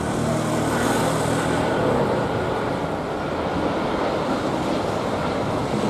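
Jet airliner engines, a steady rumble with a hiss above it.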